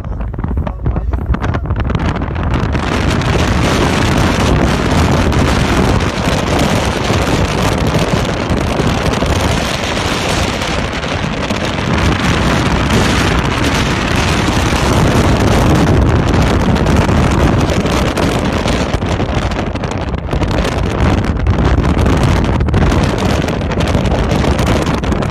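Strong storm wind around a tornado, rushing hard and buffeting the microphone in a loud steady roar that swells and eases a little.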